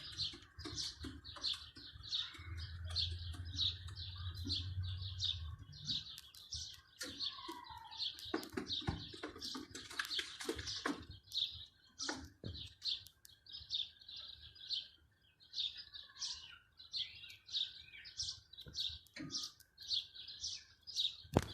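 Small cage birds chirping nonstop: a fast, even run of short high chirps, about three or four a second, with a few light knocks mixed in around the middle.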